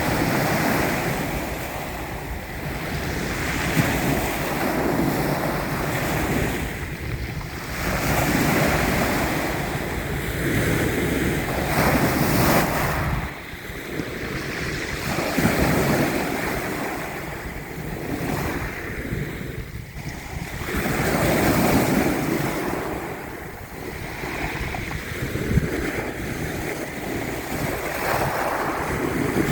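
Ocean waves breaking and washing in, swelling and ebbing every few seconds, with wind buffeting the microphone.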